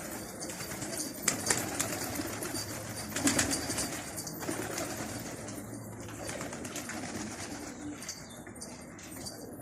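Domestic pigeons cooing, with bursts of wing flapping about a second in and again about three seconds in.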